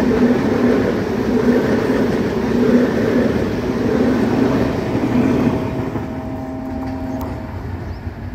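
MEMU electric train running past at speed: a steady rumble of wheels on the track that fades after about five seconds as the end of the train goes by.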